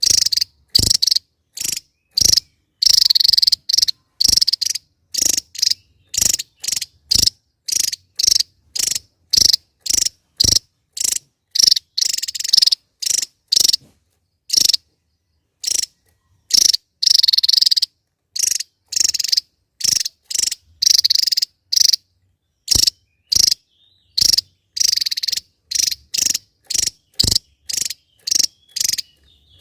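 Javan tesia calling: a steady series of short, high-pitched notes, about two a second, with a few longer runs of notes now and then.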